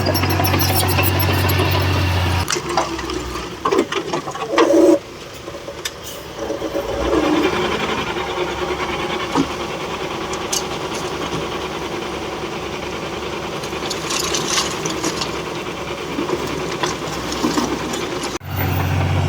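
Heavy construction machinery's diesel engine running, with rattling and clanking. A steady low engine drone stops abruptly a couple of seconds in and comes back just before the end, with scattered clatters in between.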